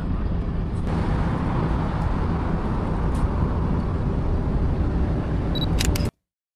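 Steady road traffic noise, a constant low rumble of cars on nearby roads, which cuts off abruptly about six seconds in.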